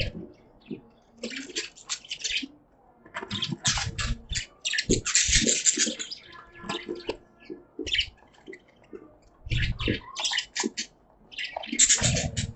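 Caged budgerigars chirping in bursts of quick, high chirps, with several low thumps among them.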